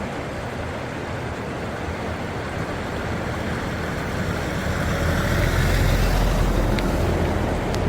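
A road vehicle passing close by, its tyre and engine noise swelling to a peak about six seconds in and then easing off, over a steady rushing noise.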